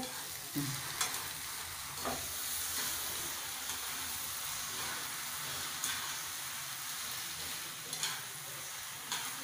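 Maggi noodles and fried paneer sizzling in an oiled frying pan while a metal spoon stirs them, with several short scrapes and taps of the spoon against the pan.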